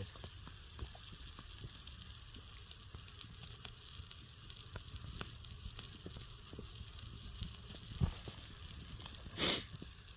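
Butter sizzling in a hot pan over a campfire, a steady faint hiss with many small pops. A knock about eight seconds in and a short louder rush near the end.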